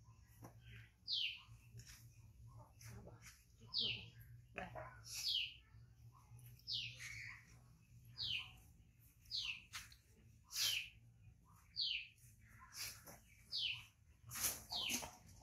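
A bird calling over and over: short high chirps, each falling in pitch, about one a second, with scattered soft clicks and rustles.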